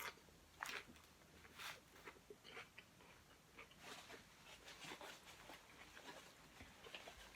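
A person chewing food with the mouth close to the microphone: faint, short crunches and mouth clicks about once a second.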